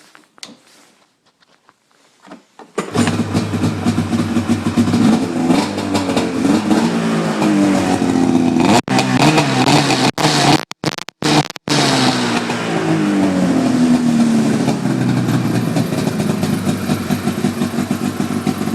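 A 2008 Arctic Cat Sno Pro 600 snowmobile's two-stroke twin engine, fitted with a rumble pack silencer, catches about three seconds in and then runs pretty loud. It is revved so its pitch rises and falls a couple of times, and the sound cuts out briefly a few times near the middle.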